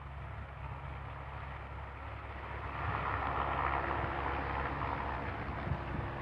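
A steady low engine hum, with a rushing noise that grows louder about two and a half seconds in.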